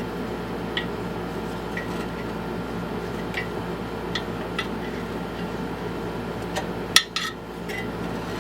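Scattered light metallic clicks and clinks of screwdrivers against a lawn mower's recoil starter while a new pull rope is threaded through it, with a sharper clack about seven seconds in, over a steady background hum.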